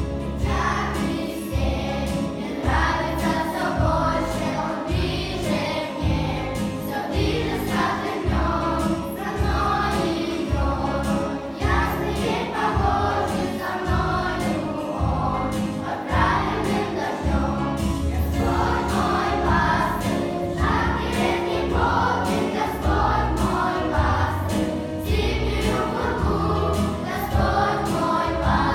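A group of children singing a Christian song together over a backing track with a steady beat.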